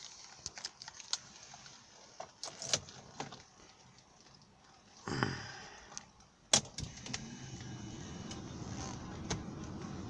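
Keys jangling and a few clicks, then about five seconds in a car engine is briefly cranked by the starter and catches. After a sharp click, the engine settles into a steady cold idle, which the owner is checking for piston knock.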